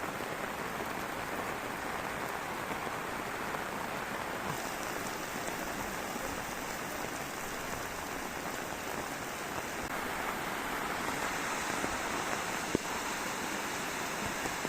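Heavy rain falling steadily, an even hiss of rain on the ground and surfaces, with a higher hiss coming and going and one sharp click near the end.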